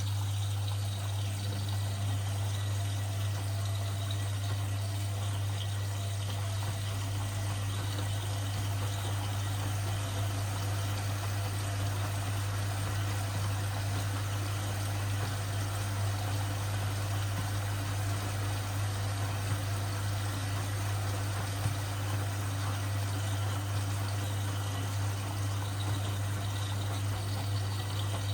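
Washing machine mid-cycle: water running and splashing inside the machine over a steady low hum, unchanging throughout.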